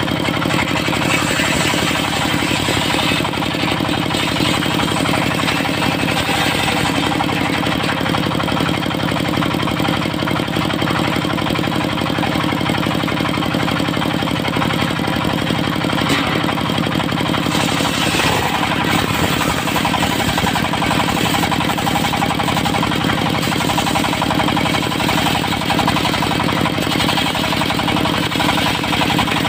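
Diesel engine driving a mobile circular sawmill, running steadily.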